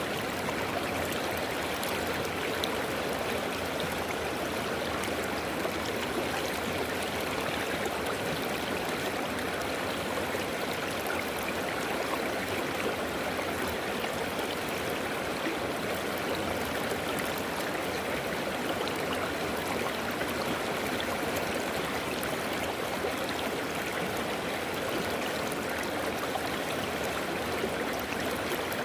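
River water flowing and gurgling over rocks: a steady, even rush of running water.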